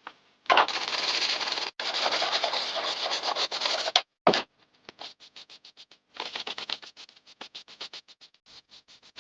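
A rough scraping and rubbing for about three and a half seconds, broken once, then one short scrape, followed by a run of light, irregular clicks and ticks.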